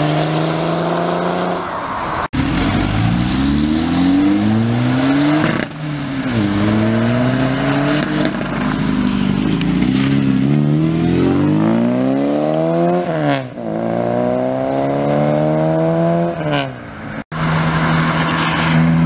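Several modified cars accelerating away in turn, in short back-to-back clips: each engine revs up with a rising pitch that drops back at each gearchange.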